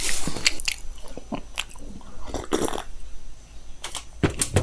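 Close-miked chewing of a mouthful of food, with wet mouth clicks and lip smacks in quick succession, a few sharper ones near the end.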